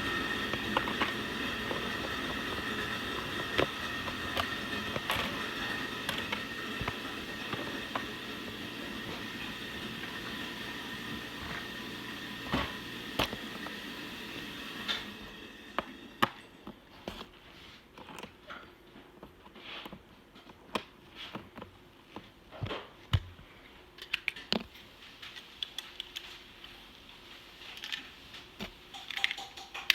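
Lego pieces being handled and put together: scattered sharp small clicks and taps. A steady background hum runs under them and stops about halfway through.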